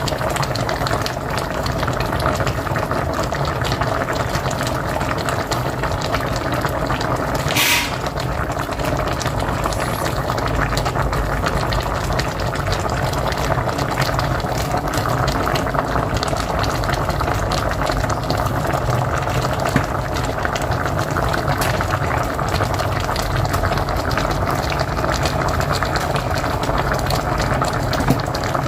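Pot of mocotó (cow's foot) at a steady rolling boil on a wood-fired stove, a continuous churn of bubbling and popping. A single sharp crack stands out about eight seconds in.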